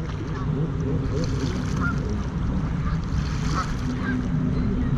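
Jet skis running out on the lake, a steady low engine drone under a rumble of wind on the microphone, with a few faint short calls over it.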